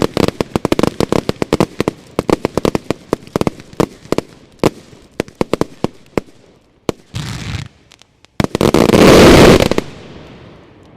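Fireworks finale: a rapid string of bangs that thins to scattered reports and stops about six seconds in. Near the end comes a loud rushing noise lasting about a second, the loudest sound here, fading away after.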